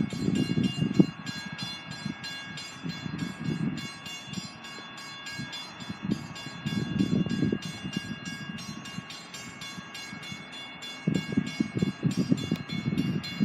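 Distant train approaching. Its low rumble, with clicks in it, swells and fades in waves about four times, under faint steady high-pitched tones.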